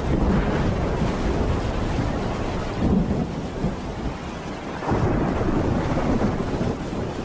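Thunderstorm: steady rain with low thunder rumbling, swelling louder about three seconds and again about five seconds in.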